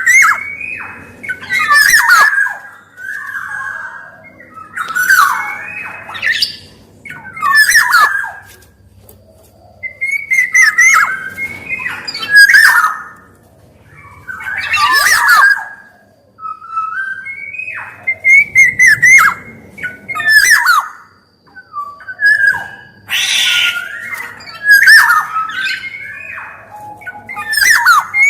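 Black-naped oriole (kepodang) calling over and over, about one call every one to two seconds. Each call mixes clear whistled notes with a harsh, rasping part.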